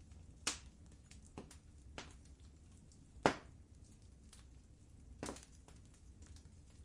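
Fire crackling in a fireplace: sharp pops and snaps at uneven intervals over a low steady rumble, with fainter ticks between. The loudest pop comes about halfway through.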